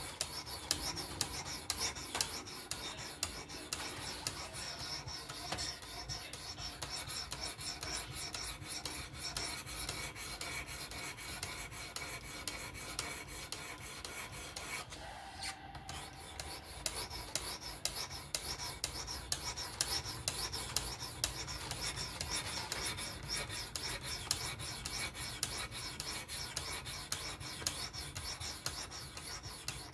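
Knife blade scraped in quick repeated edge-trailing strokes across a sharpening stone on a WSPro fixed-angle sharpener. A steady rasp, with a brief pause about halfway through.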